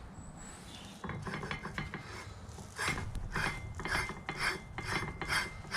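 Hand ratchet spanner being worked in quick back-and-forth strokes, a clicking rasp about two to three times a second from about three seconds in, after some lighter scattered clicks.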